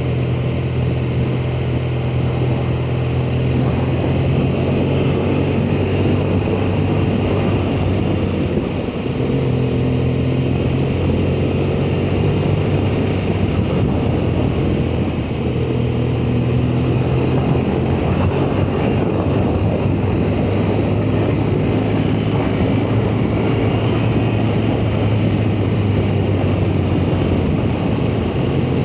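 BMW R1200GS boxer-twin engine running steadily while the motorcycle is ridden, with a continuous rush of noise under the engine note. The note eases briefly about 9 and 15 seconds in, then settles again.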